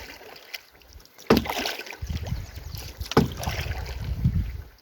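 Canoe being worked with a double-bladed paddle through shallow, mucky water: two sharp paddle strokes about two seconds apart, each followed by a low rumble of the hull dragging where the canoe barely floats.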